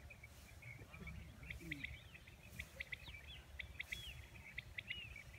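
Birds chirping in quick runs of short, sharp high notes, with a few gliding whistles, over a low steady rumble.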